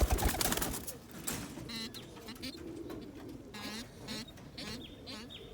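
Domestic pigeons cooing in low, wavering calls, with a few higher calls in between. A loud rustling burst comes in the first half-second.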